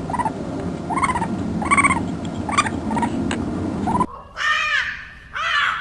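Birds calling: about six short, harsh calls over a noisy background, then, after a cut, two longer and louder calls.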